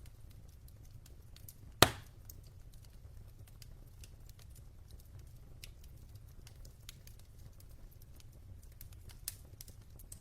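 Wood fire crackling in a fireplace: scattered small ticks and snaps over a low steady rumble, with one sharp loud pop a couple of seconds in and a smaller one near the end.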